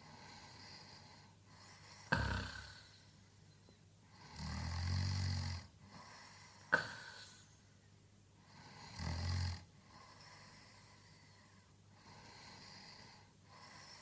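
A sleeping man snoring: two low snores, the first about a second and a half long and the second shorter, with soft breathing between. A sudden sharp sound comes about two seconds before each snore.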